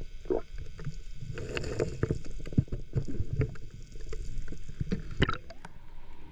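Water sloshing and churning around a submerged action camera, with irregular sharp clicks and knocks, the loudest a little past five seconds in.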